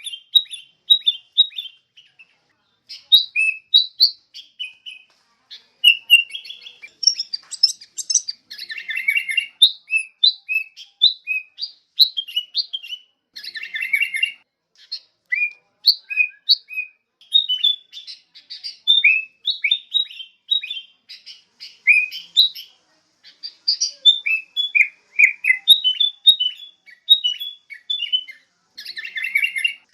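Sooty-headed bulbuls (kutilang) calling: a busy run of short chirps and quick sweeping whistled notes, in bursts with brief pauses and at times several birds at once.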